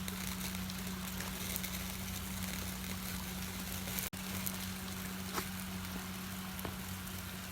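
Steady rush of a mountain stream, with a constant low hum and a few faint ticks; the sound drops out for an instant about four seconds in.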